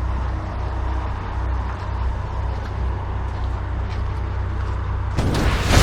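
Heavy truck's diesel engine rumbling steadily, heard from inside the cab. About five seconds in, a sudden loud burst of hissing air starts.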